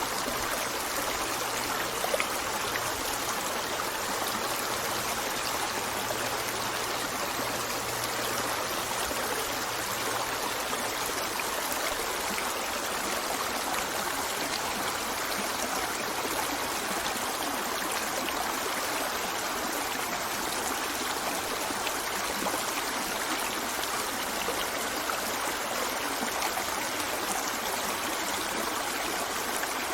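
River water flowing steadily over its bed, a continuous, even rush of running water.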